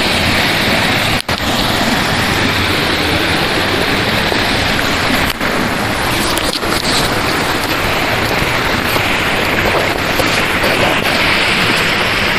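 Loud, steady rush of falling water from a waterfall cascading over rocks, with a brief dip about a second in.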